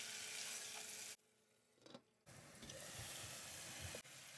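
Chopped tomatoes sizzling in hot oil with fried onions and whole spices in a pot, stirred with a wooden spoon; the sizzle cuts out for about a second near the middle, then resumes.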